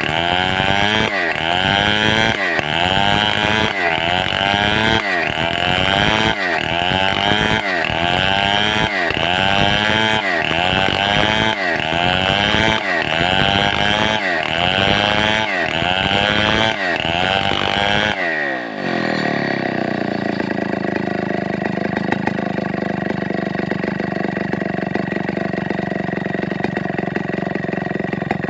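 Stihl 070 two-stroke chainsaw running hard, its engine speed surging up and falling back in a regular cycle about once a second. About eighteen seconds in, the revs fall away and it settles to a steady idle.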